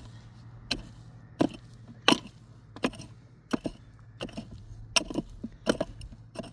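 A hand tool striking something hard over and over, about ten sharp blows at a steady pace of roughly one every 0.7 seconds, with a low steady hum underneath.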